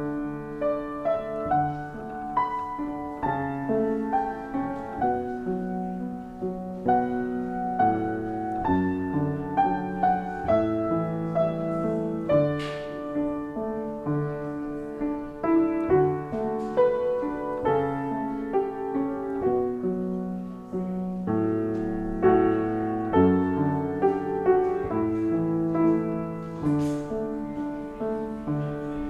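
Slow instrumental piano music: sustained chords under a moving melody, changing about once a second.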